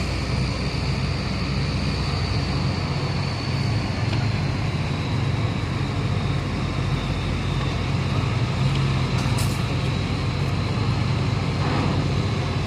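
Diesel trucks driving off a ferry's vehicle ramp, a steady low engine drone, with short hisses about nine seconds in.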